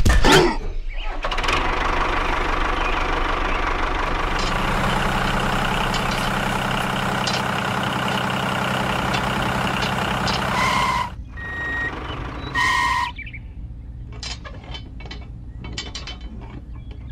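Heavy machinery engine running with a dense clattering rattle, then two short beeps about two-thirds of the way through, followed by quieter scattered clicks and ticks.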